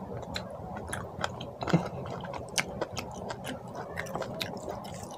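A person chewing a handful of rice and curry close to the microphone, with many wet mouth clicks and smacks; one louder smack about a second and a half in.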